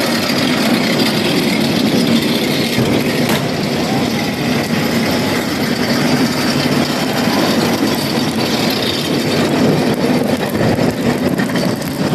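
Dense, steady crowd noise of a packed street, with faint voices mixed in.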